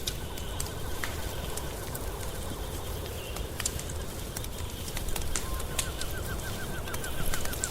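Wood fire crackling, with scattered sharp pops over a steady low rumble. A fast, even run of short chirps sounds behind it, dropping out about half a second in and coming back about five and a half seconds in.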